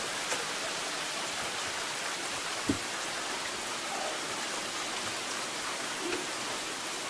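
Steady rain falling, an even hiss, with one brief thump a little under three seconds in.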